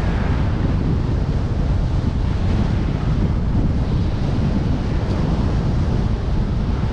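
Strong wind buffeting a cyclist's camera microphone while riding: a steady, dense low rumble.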